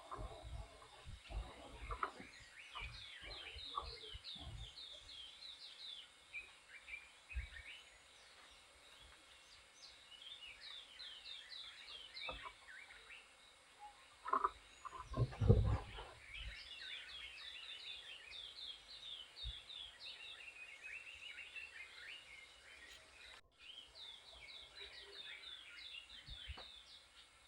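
Many small birds chirping and twittering in quick, short, downward-sliding calls, with a few low thumps and a louder knock and rustle about halfway through.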